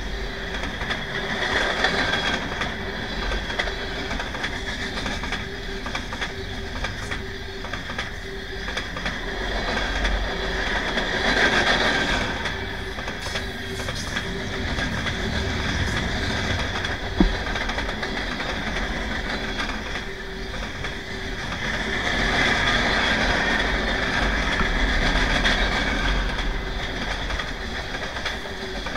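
Freight train cars rolling past, steel wheels clicking over the rail joints with a continuous rumble and a high wheel squeal that swells twice. One sharp click comes a little past halfway.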